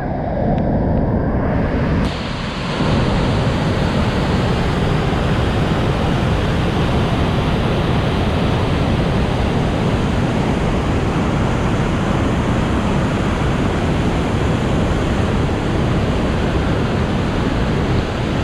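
Waterfall in flood after heavy rain, a steady loud rush of pouring water. It sounds duller for the first two seconds, then fuller.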